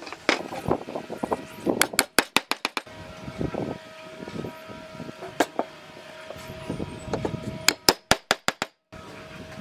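Sharp knocks of work on wood, coming singly and in quick runs of five or six, with one fast run about two seconds in and another near the end, over a faint steady hum.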